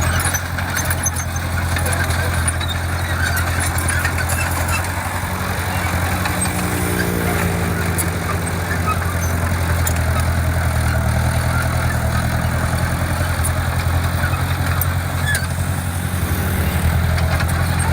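Heavy construction machine's diesel engine running steadily at a low, even pitch, its note shifting briefly about seven seconds in.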